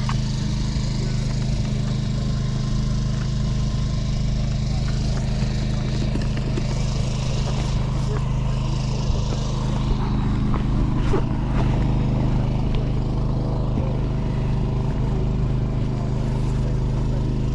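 An engine running steadily close by, giving a constant low drone that neither rises nor falls, with a few faint knocks and clicks over it.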